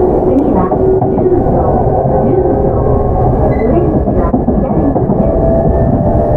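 Running noise inside a JR E233-7000 series commuter train's motor car (Mitsubishi IGBT VVVF drive): a steady rumble of wheels on rails, with a humming tone that rises slightly and fades out about a second in.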